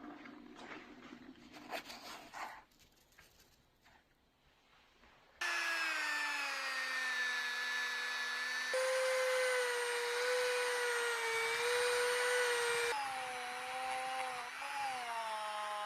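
Scraping and light clicks, then a small high-speed power tool or electric motor running with a steady whine that jumps in pitch abruptly twice and sags and wavers near the end, as under load.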